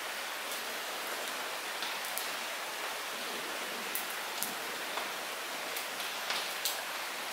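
Light rain falling in steady hiss, with scattered individual drops ticking close by on surfaces.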